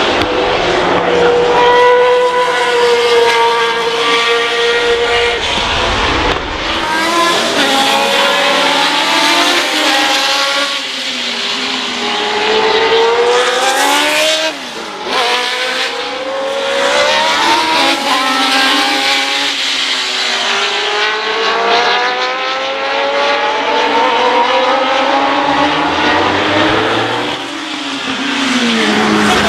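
Race car engines at high revs passing by one after another, their pitch rising and falling through gear changes and braking. A short rush of noise comes about fourteen seconds in as one passes close.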